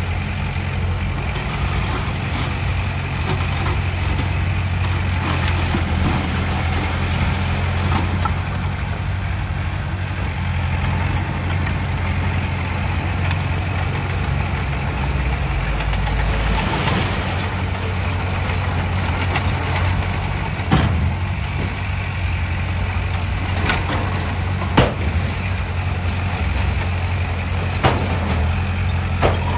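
Heavy diesel earthmoving machinery running steadily. A few sharp knocks come in the last third.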